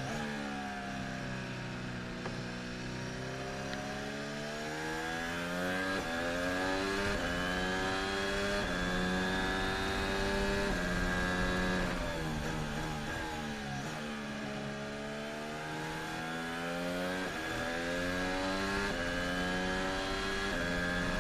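Onboard sound of a Formula 1 car's Honda 1.6-litre turbo V6 hybrid engine. It twice slows with the pitch falling, then accelerates up through the gears, each upshift a step in pitch. A steady high whine runs beneath the engine note.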